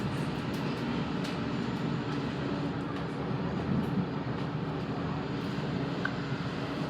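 Electric passenger train running, a steady rumble with no clear change in pitch or loudness.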